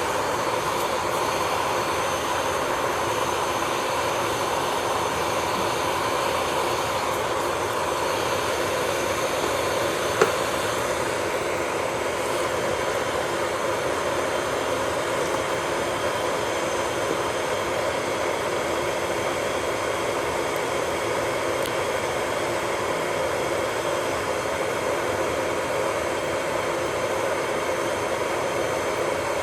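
Electric nail drill (e-file) running with a steady whine as its bit works on a nail, with a short click about ten seconds in.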